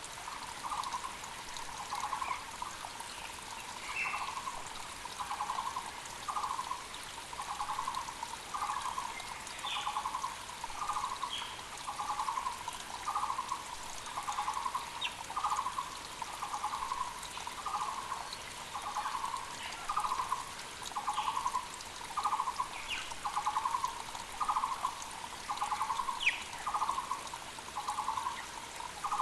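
Taiwan barbet (Muller's barbet) calling, one low hollow note repeated a little more than once a second without a break. Other birds give short sharp high calls, and a mountain creek trickles underneath.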